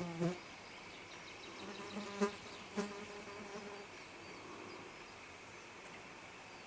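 A flying insect buzzing close by in short passes: a brief buzz at the start, then a longer, wavering buzz from about a second and a half in to nearly four seconds.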